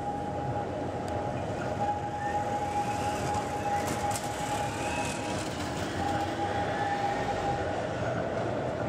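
Keihan 800 series electric train running slowly round a tight curve on street track. A steady high whine rides over the rolling noise of the wheels on the rails for most of the time, fading briefly around six seconds in.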